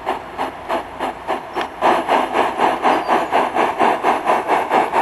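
Sound-card steam exhaust chuffs of a Gauge 1 Accucraft K27 Mudhen model locomotive running at speed through its onboard speaker: an even beat of about four to five chuffs a second. The chuffs get louder about two seconds in.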